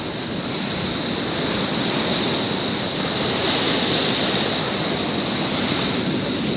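Steady, even wash of ocean surf breaking on a beach.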